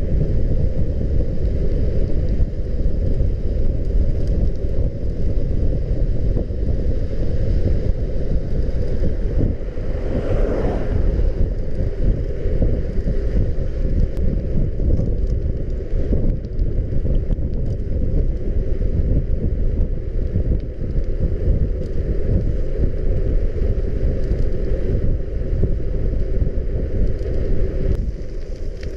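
Wind buffeting on the camera microphone while riding a bicycle, a steady rumble mixed with tyre noise, with a brief louder gust about ten seconds in.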